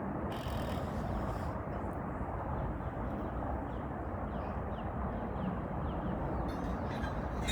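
Steady outdoor background noise: an even low rumble, with a few faint, short high chirps in the middle.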